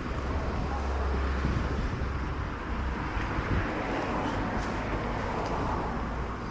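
Road traffic: a steady low rumble with a rushing hiss that swells for a few seconds in the middle, as of a vehicle passing, then eases near the end.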